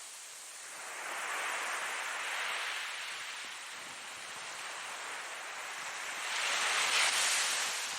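Ocean waves breaking and washing in: one wave swells about a second in, and a louder one peaks about seven seconds in.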